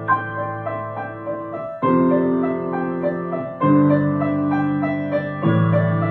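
Solo piano playing a gentle piece: sustained low chords change about every two seconds, under quick repeated notes higher up.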